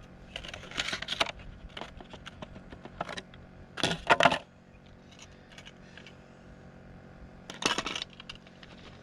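Clinking, rattling handling noise in three short bursts, the loudest about four seconds in.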